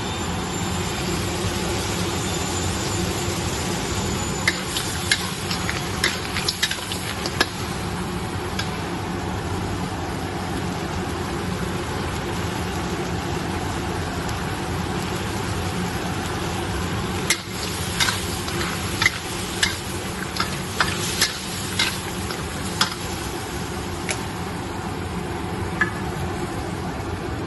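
Black sea crab stir-frying in a hot pan: steady sizzling, with two runs of a metal utensil clacking and scraping against the pan as it is stirred.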